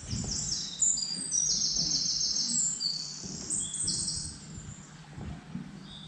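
Birdsong: many short, high chirps and trills overlapping, thinning out about four seconds in.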